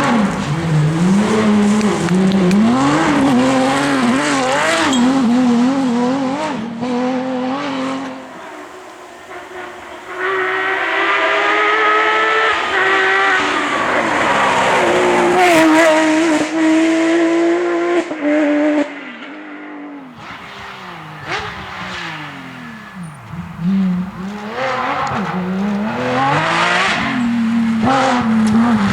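Porsche 911 GT3 rally car's flat-six engine revving hard and climbing through the gears, its pitch rising and dropping again and again. It falls back to quieter lulls about eight seconds in and again around twenty seconds in, then picks up again.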